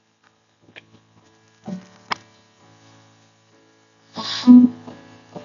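Soft sustained keyboard chords under a faint mains hum, with a few short knocks and one brief loud sound about four seconds in.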